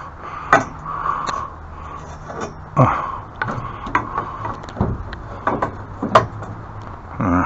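Irregular knocks and clicks of objects being handled and set down, the sharpest about half a second in, near three seconds and near six seconds, over a low steady hum.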